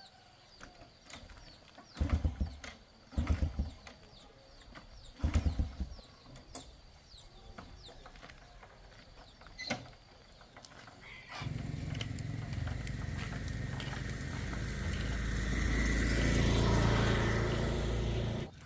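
Small motorcycle engine: three short low rumbles in the first seconds, then about 11 s in it runs steadily, growing louder, and cuts off abruptly near the end.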